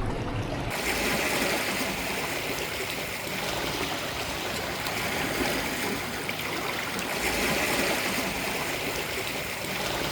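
Sea water washing against the shore: a steady rush that swells and eases every few seconds. A short low rumble cuts off just before it begins.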